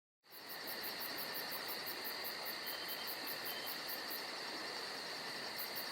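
Crickets chirping: steady high trills, with a faster pulsed chirping above them at about five pulses a second, fading in just after the start.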